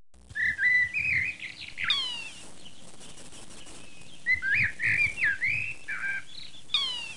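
Songbird chirping in short whistled phrases that slide up and down, in two runs. A quick falling swoop of several tones sounds about two seconds in and again near the end.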